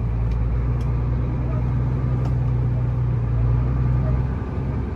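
Vehicle engine running steadily with a low drone, which shifts in pitch and level near the end.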